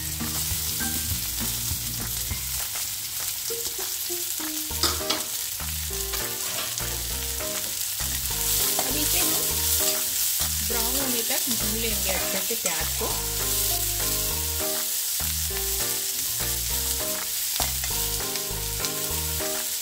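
Chopped onions frying in hot oil in a kadhai, with a steady sizzle, stirred with a spatula that scrapes and clicks against the pan now and then.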